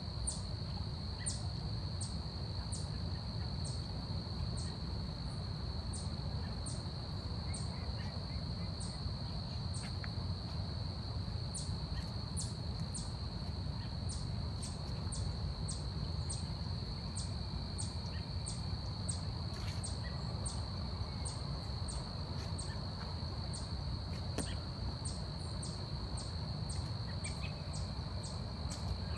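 Forest ambience: a steady high insect drone, with many short high chirps, more than one a second at uneven spacing, over a low steady rumble.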